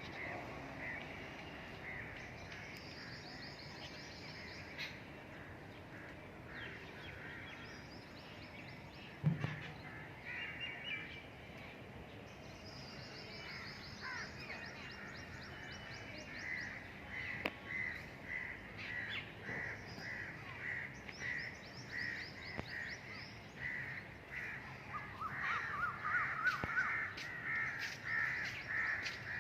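Crows cawing over other birds' higher chattering trills. The caws come in a quick steady run from about halfway through. A single dull knock about nine seconds in.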